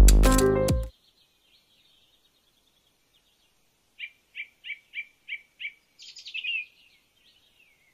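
Background music cuts off about a second in, giving way to faint bird chirps: a thin twittering, then six short chirps about three a second, then a brief quicker trill.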